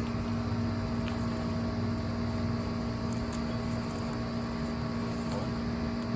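Steady mechanical drone: a constant hum with a low rumble underneath, unchanging in pitch and level.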